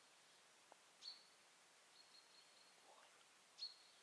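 Near-silent forest with faint, high, thin bird calls: a sharp note about a second in, a short held whistle around two seconds, and another sharp note running into a wavering whistle near the end.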